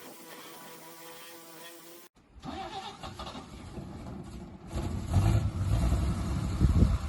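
Background guitar music with steady notes, which cuts off about two seconds in. Then wind buffets the microphone in uneven low gusts, growing louder about five seconds in.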